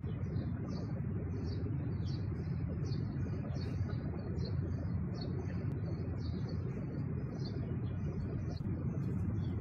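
A bird chirping over and over, about one short high chirp every 0.7 seconds, over a steady low rumble.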